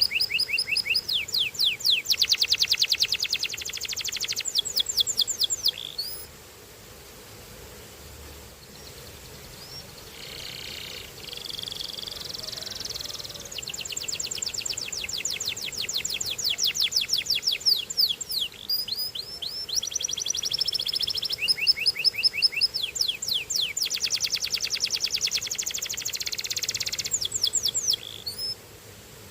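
Belgian canary singing: rapid trills of repeated high notes, each run giving way to another at a different pitch or speed. The song breaks off about six seconds in, comes back with a softer phrase, then runs on in trills until shortly before the end.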